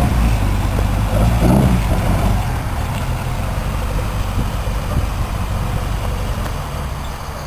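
A car engine running with a low rumble, loudest in the first couple of seconds and then settling a little lower.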